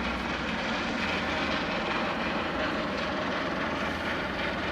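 Police helicopter hovering low overhead: a steady engine and rotor din with a low pulsing beat from the blades.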